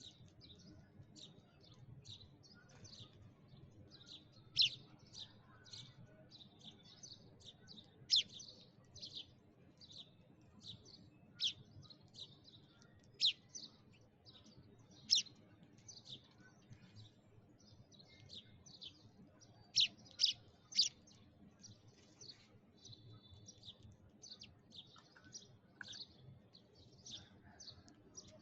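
Sparrows chirping: a dense, continuous run of short chirps, with a handful standing out much louder than the rest.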